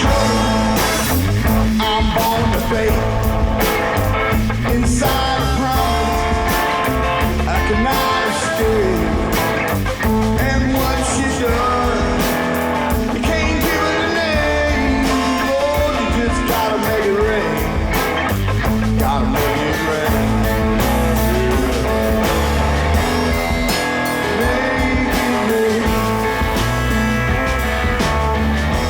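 Live rock band playing a passage without sung words: guitar to the fore over a steady drum beat and bass.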